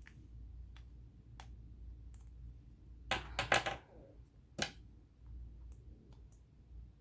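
Light clicks and taps from handling small objects during work on a sewing machine, with a quick run of sharper clicks about three seconds in and one more a second later.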